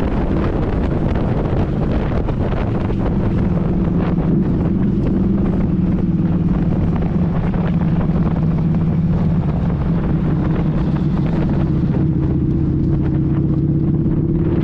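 Motorcycle engine running steadily at cruising speed, its drone shifting slightly in pitch, with wind buffeting the microphone.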